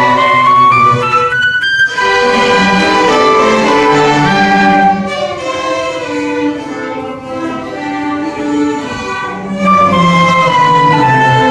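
An orchestra playing classical music, led by violins and other bowed strings, with a short break in the sound about two seconds in.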